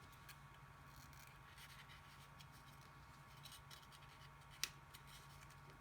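Faint rustling and light taps of a paper cutout being moved about on cardboard, with one sharper click about four and a half seconds in, over a low steady hum.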